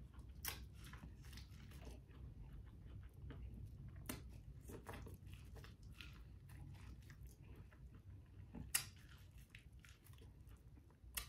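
Faint close-up chewing and biting of corn on the cob: irregular soft, wet clicks and crunches, the loudest nearly nine seconds in.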